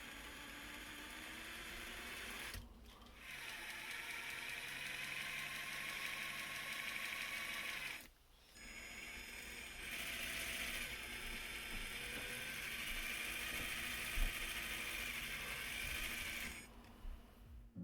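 Traxxas TRX-4 crawler's electric motor and transmission whining as it drives, the pitch rising and falling with speed and stopping briefly twice, about 3 and 8 seconds in, with one knock near the end. The drivetrain runs without the clicking noise, its transmission reshimmed.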